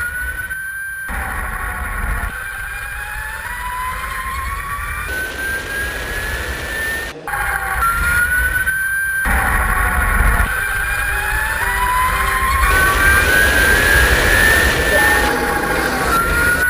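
High-revving motorcycle engine accelerating hard through the gears: the pitch climbs steadily, then drops at each upshift. It comes in several short clips cut together.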